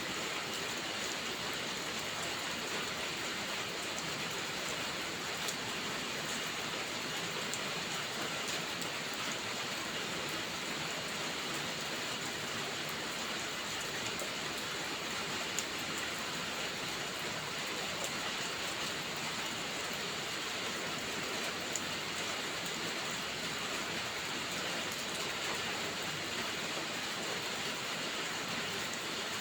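Steady rainfall, an even unbroken hiss, with a few sharp ticks scattered through it.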